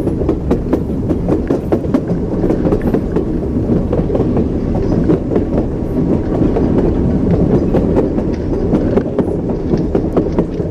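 Moving train's wheels clacking over the rail joints: a steady low rumble with frequent sharp clicks and knocks.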